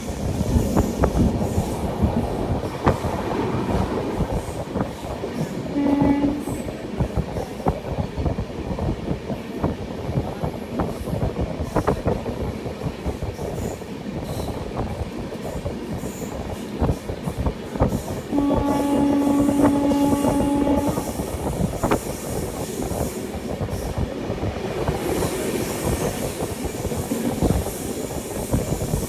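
Indian express train running at speed, its wheels clattering steadily over the rail joints. A short horn blast sounds about six seconds in, and a longer horn of about two and a half seconds comes about two-thirds of the way through.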